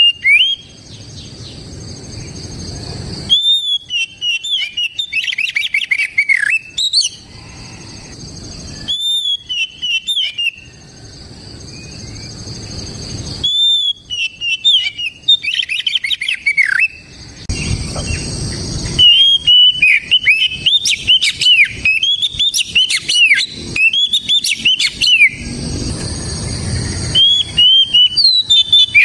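Oriental magpie-robin (kacer) singing loudly in bursts of rapid, varied whistled notes, five phrases separated by short pauses, over a steady high hiss.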